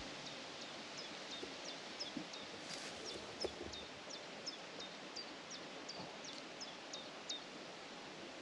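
A small songbird singing a long run of short, sharp, high notes, about two or three a second, over a steady outdoor hiss.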